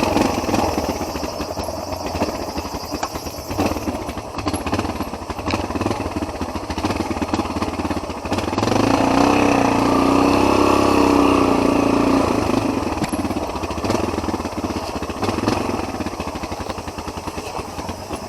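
Off-road trail motorcycle's single-cylinder engine running as the bike is ridden, revving up and back down about halfway through.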